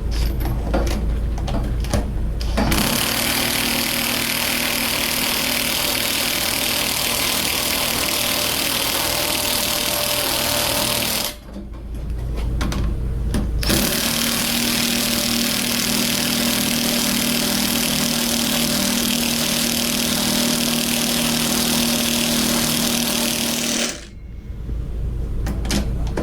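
Impact wrench hammering a nut down a carriage bolt in two long runs of about eight and ten seconds, with a short pause between them.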